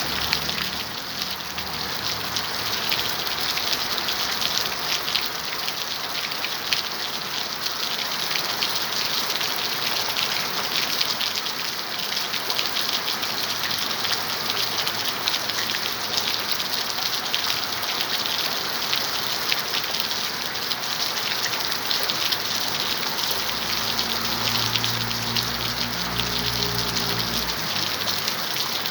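Steady rain falling, a dense patter of drops. Near the end a low drone joins in for about five seconds, then stops.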